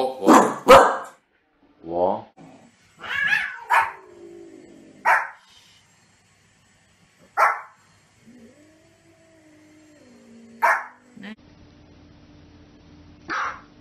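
Small dogs barking in turn: a quick run of sharp barks at the start, then single barks every couple of seconds. Midway a drawn-out, wavering cry rises and falls for about two seconds.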